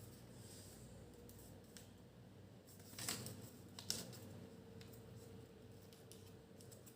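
Faint sounds of a paper sheet being folded and creased by hand, with a few short, sharp paper crackles about three and four seconds in.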